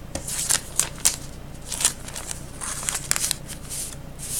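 Trading cards and their plastic sleeves being handled: irregular quick rustles and clicks.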